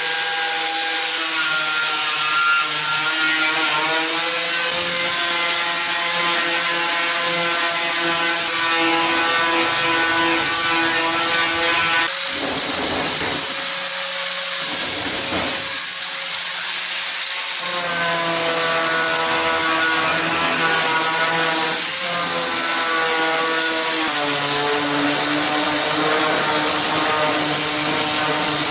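A motorised machine or power tool running steadily with a high whine, its pitch shifting in steps every few seconds and turning rougher for a stretch in the middle.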